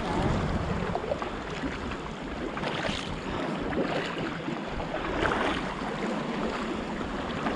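Sea water lapping and splashing around an inflatable kayak on the move, with small irregular splashes and drips.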